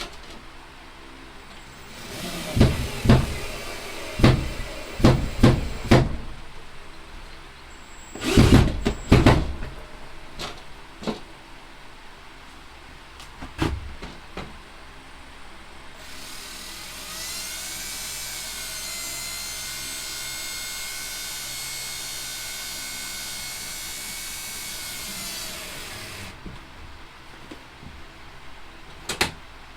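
Several loud knocks and clunks, then a cordless drill-driver that spins up, runs steadily for about ten seconds and stops, while the microwave's wall plate is fastened to the wall.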